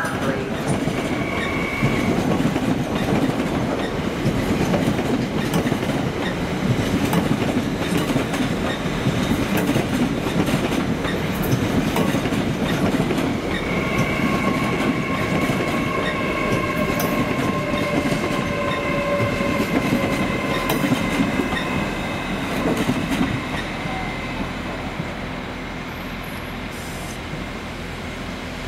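Hitachi Azuma high-speed trains running over station pointwork: a steady rumble with wheel clicks over rail joints and points. A steady high whine joins about halfway, and both fade near the end.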